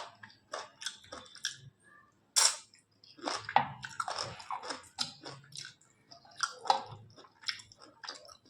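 Close-miked chewing of a mouthful of rice and chicken curry: irregular sharp wet mouth clicks, some louder than others.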